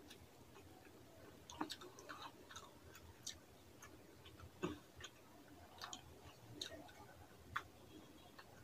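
Quiet, close-miked eating sounds of rice and fish curry eaten by hand: scattered wet chewing clicks and lip smacks at an irregular pace.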